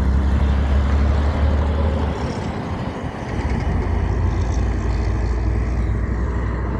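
Heavy truck engine running with a deep rumble over broad road noise. It eases off briefly about two to three seconds in, then builds again.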